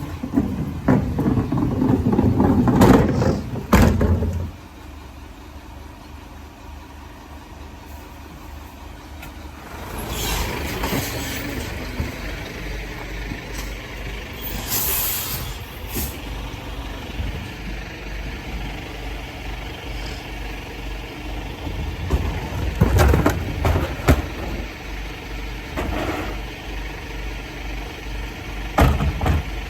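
Garbage truck running, with a short sharp hiss of air about fifteen seconds in. Heavy clattering fills the first four seconds, and a few knocks come in the second half.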